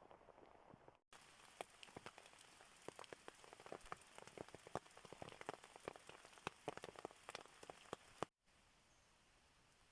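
Rain falling: a dense, irregular patter of individual drops tapping. It starts abruptly about a second in and cuts off suddenly near the end, with a faint steady hiss before and after.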